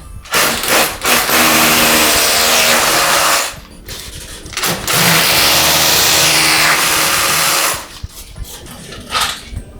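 A power tool runs twice, about three seconds each time, with a short pause between. Each run is a loud, steady whirring hiss over a low hum.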